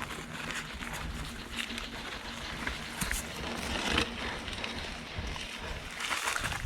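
Bicycle rolling over a rough dirt trail: steady tyre noise with scattered knocks and rattles, a sharper one about three and four seconds in.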